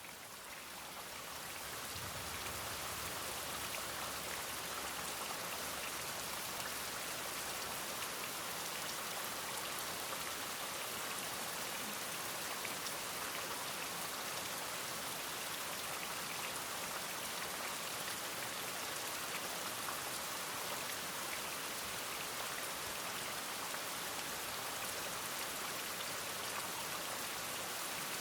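Steady rain with many fine drop ticks, fading up over the first two seconds and then holding steady.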